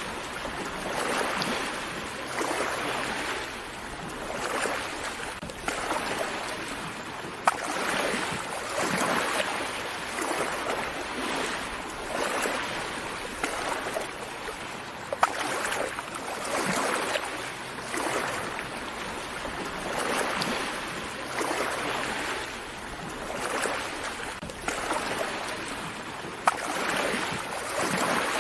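Gentle sea waves washing onto a shore, swelling and easing about every two seconds, with a few brief sharp clicks.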